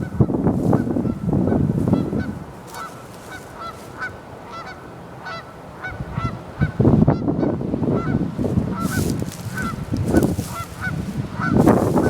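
Geese honking repeatedly, a string of short calls about two a second. A loud rushing noise covers the first two seconds and returns at about seven seconds.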